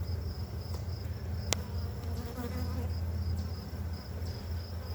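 Honey bees buzzing steadily around an opened hive, the colony agitated by the inspection. A sharp click about a second and a half in, and a steady high pulsing trill of another insect throughout.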